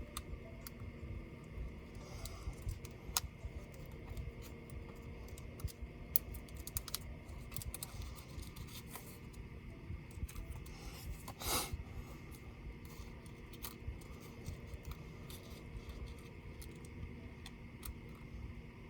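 Scattered small clicks and taps of hands and tools working on a Dell Vostro 13 5310 laptop as it is taken apart, with one louder brief scrape about eleven seconds in.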